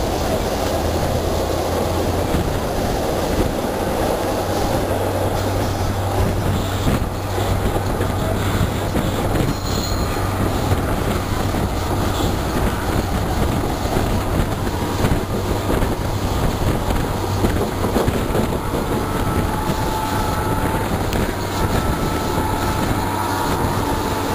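Passenger train running along the track, heard from an open coach window: a steady rumble of wheels on rail with wind noise and a low hum. A faint thin wheel squeal comes in during the last few seconds.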